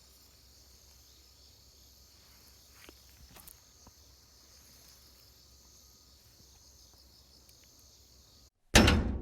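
Insects, crickets, chirring faintly and steadily in a high band, with a few faint knocks about three seconds in. Near the end the sound cuts out abruptly and a loud sudden hit rings and fades away.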